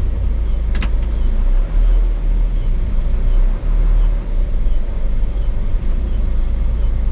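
Hino 500 FM 260 JD truck's six-cylinder diesel engine running under way, heard as a steady low drone inside the cab. A faint regular tick repeats about one and a half times a second, and a single sharp click comes about a second in.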